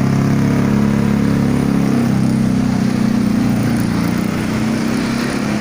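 Suzuki Jimny engine running steadily through a newly fitted full custom exhaust system (header to tailpipe), a deep, even exhaust note that shifts slightly in pitch a couple of times.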